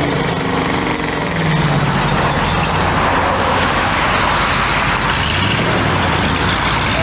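C2 Corvette Sting Ray convertible's V8 engine running as the car pulls away and drives off down the road.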